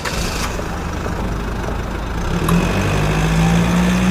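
Heavy vehicle engine running steadily, getting louder, with a low hum that comes in about two seconds in.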